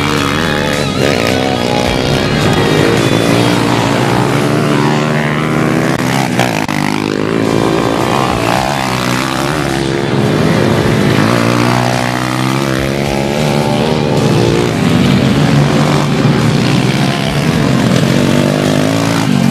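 Small pit bike engines of a 140 cc race class revving up and down as the bikes race past on a dirt track, pitch rising and falling with each gear change and pass.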